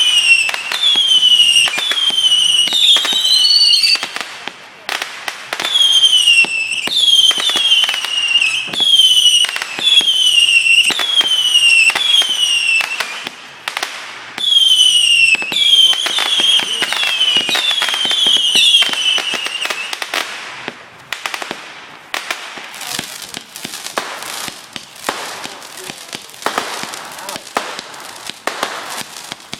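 Consumer fireworks going off in quick succession: a run of whistling shots, each a short whistle falling in pitch, about one a second, mixed with sharp cracks. About twenty seconds in the whistles stop and a quieter, dense crackle of small bangs carries on.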